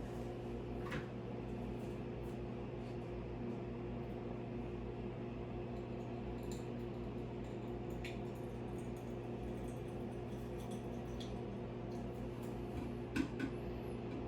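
A steady low electrical or mechanical hum with a few faint ticks, and a small knock near the end.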